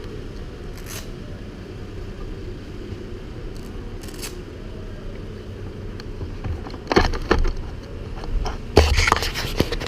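A steady low rumble, broken by clattering knocks and scrapes about seven seconds in and again near the end.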